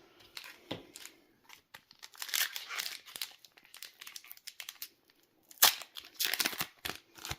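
Foil wrapper of a Pokémon card booster pack crinkling and tearing as it is handled and opened, in irregular crackly bursts with one sharp loud snap a little past halfway.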